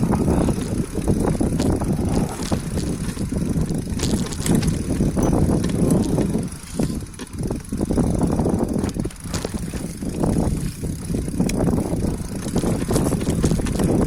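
Bicycle rolling downhill: a continuous low rumble of tyres and wind on the microphone, with scattered short rattles and clicks from the bike.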